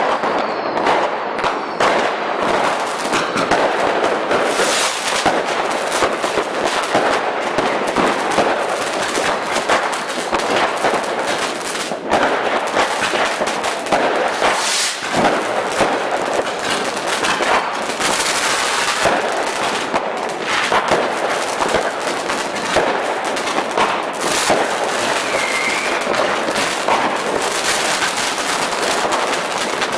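Fireworks and firecrackers going off in a dense, continuous barrage of crackles and bangs, with no breaks.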